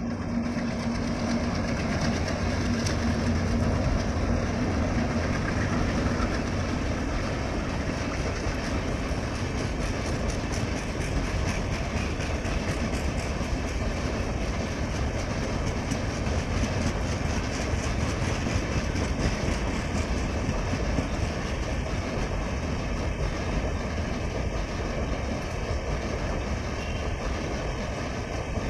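A train passing, its steel wheels clattering over rail joints in a dense, steady run of clicks over a continuous rumble.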